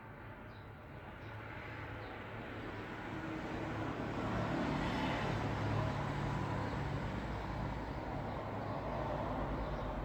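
Road traffic: a vehicle's tyre and engine noise swelling as it approaches, loudest about halfway through, then easing only a little. A few faint bird chirps near the start.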